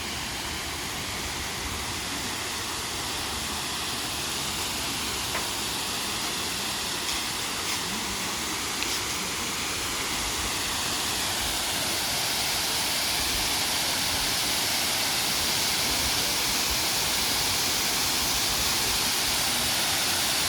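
Capra waterfall's falling water, a steady rush that grows gradually louder over the second half.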